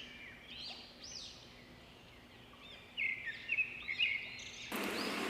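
Small birds chirping: repeated short, rising-and-falling chirps with a few brief whistled notes, growing busier about three seconds in. A faint broad hiss comes up near the end.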